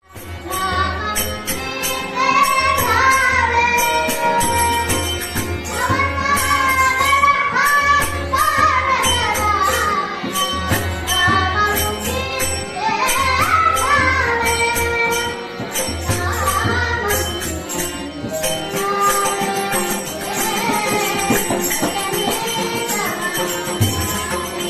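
A child singing a Marathi devotional song in the Dashavatar folk style with a high, wavering melody. The voice is accompanied by a steady drum and regularly struck small cymbals.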